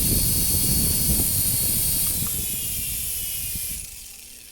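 A small coaxial RC toy helicopter's electric motors whining at speed, its rotors whirring with rotor wash buffeting the microphone. The whine drops in pitch after about two seconds and dies away shortly before the end as the motors spin down.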